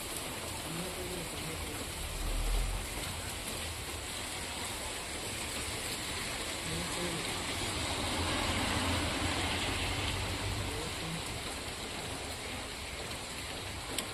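Steady rain noise, with a low rumble that swells briefly about two seconds in and again around the middle.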